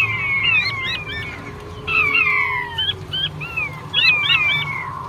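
Male puyuh batu (king quail) calling: repeated whistled notes that slide downward, mixed with short upward-hooked notes, several calls overlapping. The calls thin out about a second in and pick up again near two seconds, over a low steady hum.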